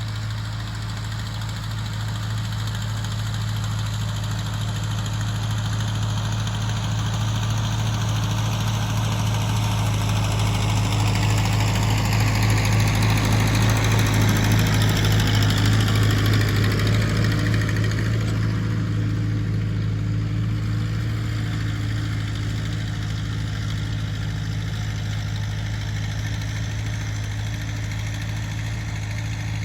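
Tractor engine running steadily with a deep, even hum; it grows louder toward the middle, then eases off again.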